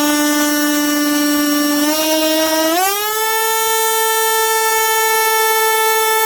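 BLACK+DECKER Dustbuster cordless handheld vacuum's motor running with a steady whine on its low suction setting, then rising to a higher pitch about three seconds in as it is switched to high. Near the end it starts to spin down.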